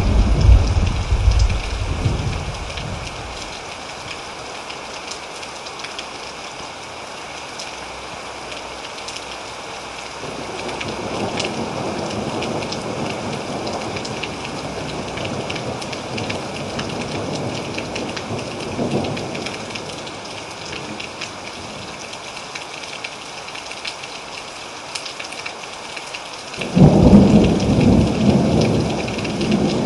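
Thunderstorm: steady rain hiss with thunder. A loud rumble dies away over the first few seconds, a softer rolling rumble swells and fades in the middle, and a sudden loud thunderclap breaks near the end and rumbles on.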